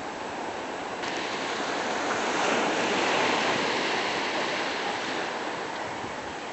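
Ocean surf: a wave's rushing noise swells to a peak about three seconds in, then slowly fades as it washes back.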